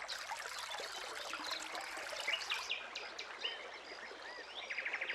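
Natural wetland ambience: a steady wash of running water with small birds chirping now and then over it.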